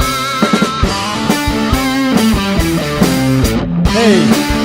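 Rock band playing: guitars with wavering, bent notes over bass guitar and a drum kit keeping a steady beat.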